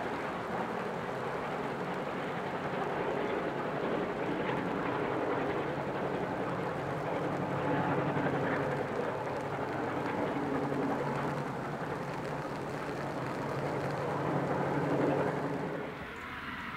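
Distant train made up of Garratt steam locomotive 6029 and diesel locomotives 4201 and 42103, heard as a steady low rumble that swells and fades, under wind and rain noise. The sound drops suddenly near the end.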